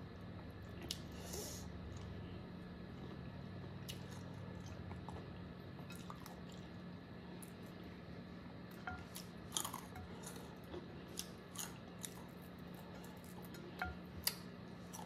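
A person chewing chicken wings close to the microphone: soft wet mouth sounds with scattered small clicks and smacks, over a low steady hum.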